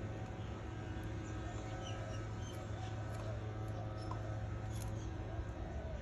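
Faint, scattered short cheeps from canary nestlings over a steady low hum.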